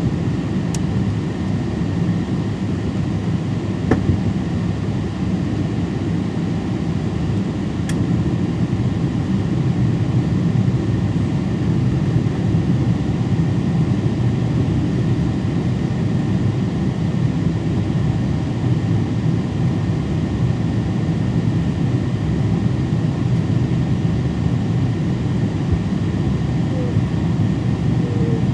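Steady low roar of engine and airflow noise inside the cabin of a Boeing 777-200ER airliner in flight, with a faint high steady tone over it and a few light clicks near the start.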